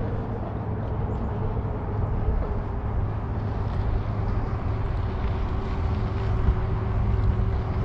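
Radio-controlled catamaran boat running on the water, its electric motors making a steady whine over a low rumble.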